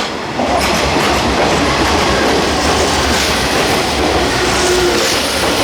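Kintetsu train running along the platform, its wheels clacking over the rail joints. The loud rumble comes in about half a second in and holds steady, with faint squealing tones near the end.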